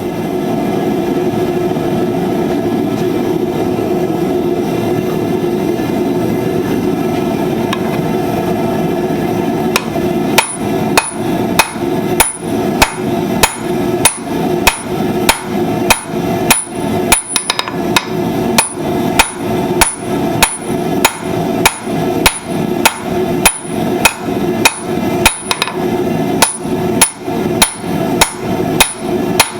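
Hand hammer striking hot steel on an anvil in a steady rhythm of about one and a half blows a second, each blow with a bright ring, starting about ten seconds in. Before the hammering there is only a steady hum.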